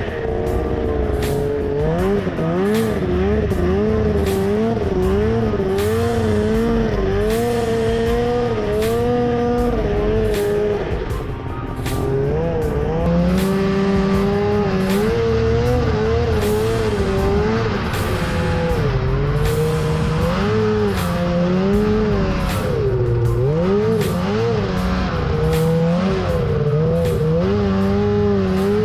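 Snowmobile engine running hard, its note constantly rising and falling as the throttle works over rough ditch terrain. About eleven seconds in the engine note drops and the level dips briefly before it picks back up.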